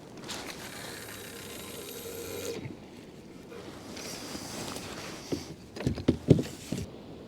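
Gear being handled in a kayak: two stretches of rustling, then a quick cluster of knocks a little over five seconds in.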